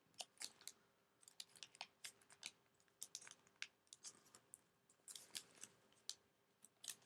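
Sheet of origami paper being folded and creased by hand, giving a faint, irregular run of short crisp crackles and ticks.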